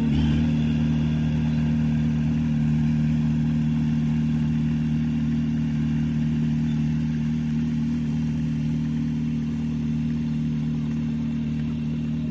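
Heavy diesel engine of earthmoving machinery running steadily at a constant speed, growing slightly quieter toward the end.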